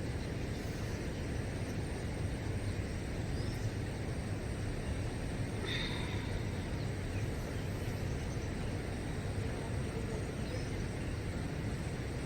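Steady outdoor background noise, mostly a low rumble, with one short high chirp about six seconds in.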